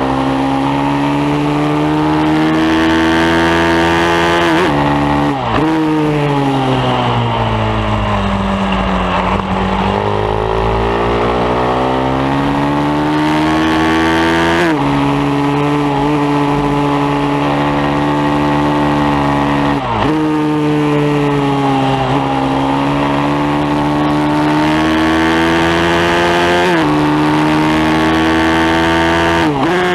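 Pit bike engine at racing revs on track. It climbs in pitch through the gears, with several quick dips at the upshifts. About five seconds in it winds down through a long slowdown into a corner, then pulls back up.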